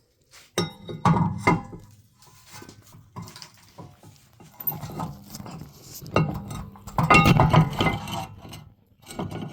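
Metal brake parts clanking and ringing in two bouts as a brake rotor is worked onto the rear wheel hub.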